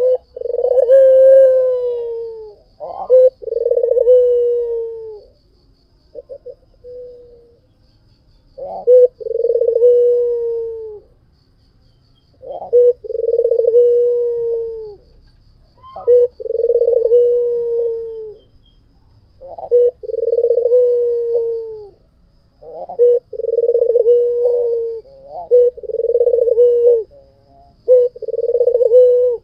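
White ringneck dove (puter putih) cooing over and over. Each call is a short sharp note followed by a long, slightly falling coo, about ten calls in all, coming closer together near the end.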